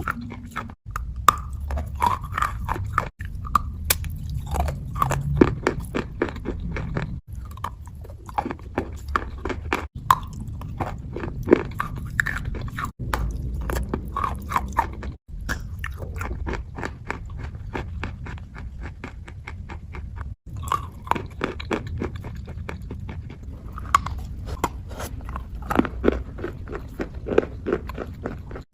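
Close-miked ASMR wet crunching: a dense run of crisp bites and chewing on a crunchy item coated in paste, broken by brief dropouts at several cuts between clips.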